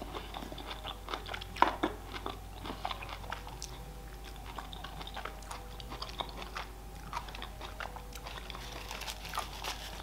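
Close-miked chewing of a mouthful of chocolate-covered pineapple: soft crunching and irregular wet mouth clicks.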